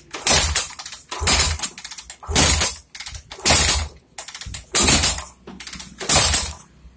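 Bajaj Boxer single-cylinder engine kicked over six times, about once a second, with the spark plug out and a finger over the plug hole: each stroke gives a sharp puff of compressed air forced out past the finger. This shows the rebuilt engine now holds good compression.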